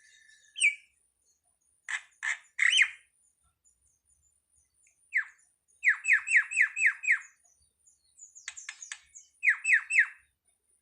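A jalak (starling or myna) calling in short notes that sweep quickly downward. There are a few separate calls early on, a run of six fast notes about six seconds in, and three more near the end.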